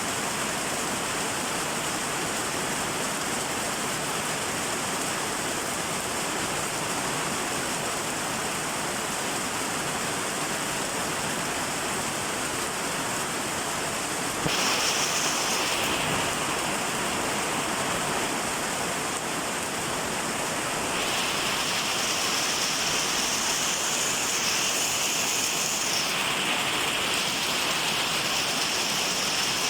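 Steady rain falling, an even hiss. It turns a little louder and brighter about halfway through, and again a few seconds later.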